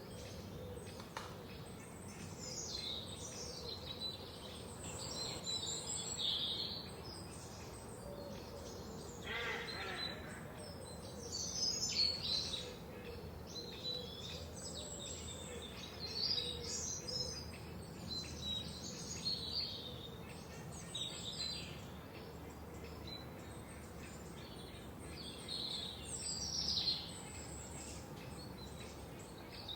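Several forest songbirds chirping and trilling, calls overlapping one after another, over a steady background hiss.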